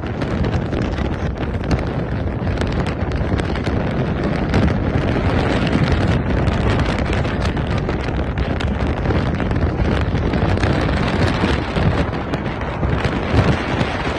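Strong gusting wind battering the microphone: a loud, continuous rumbling roar with rapid irregular buffets.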